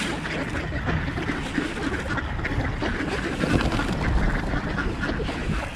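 A large flock of ducks quacking and chattering steadily, with many birds calling over one another.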